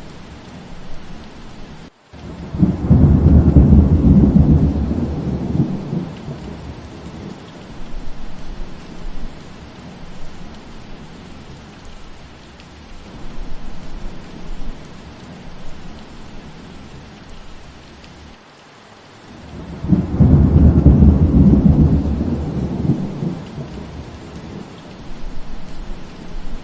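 Steady rain with two long rolls of thunder, the first starting about 3 seconds in and the second about 20 seconds in, each rumbling for several seconds. The sound drops out for an instant just before the first roll.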